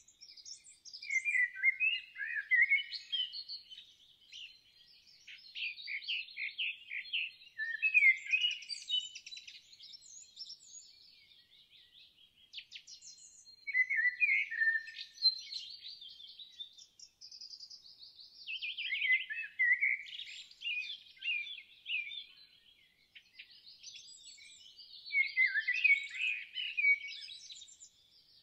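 Songbirds singing in bursts of quick, varied chirping phrases every few seconds, with a thin held whistle near the middle.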